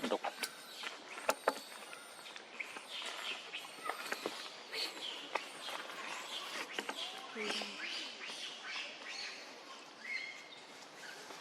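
Many short, high chirps and squeaks come and go throughout, with scattered sharp clicks and rustles over a steady outdoor hiss.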